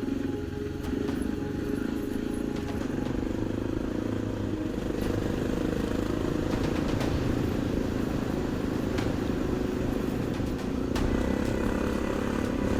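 BMW GS adventure motorcycle engine running steadily under way on a sandy track, with a few light clicks and clatters over it.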